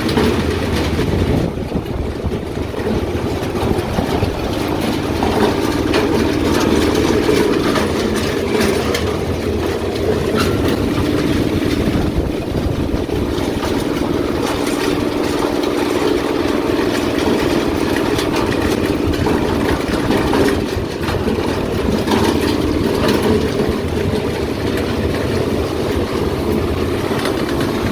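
Honda K-series four-cylinder engine swapped into a VW Corrado, running steadily as the car is driven.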